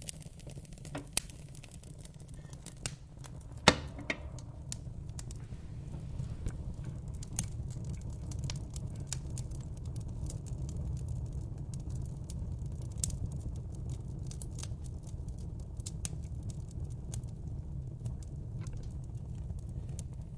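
Wood fire crackling in a fireplace: scattered sharp pops and snaps over a steady low rumble of the flames, with one loud pop a little under four seconds in.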